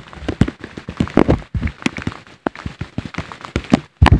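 Footsteps on a wet, muddy mountain trail: rapid, irregular thuds and taps close to the microphone.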